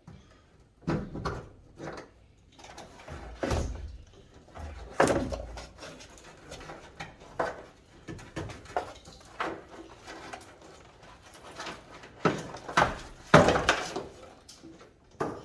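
Irregular clicks, knocks and short rattles of hand work on the wiring and parts behind a truck's dash as the fuse box and harness are disconnected. The loudest knocks come about five seconds in and again near the end.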